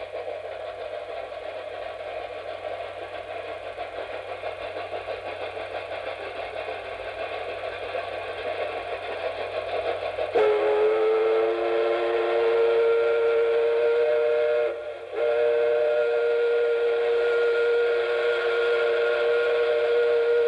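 A train running, then about ten seconds in a steady multi-tone train whistle starts suddenly and is held, broken once by a short gap.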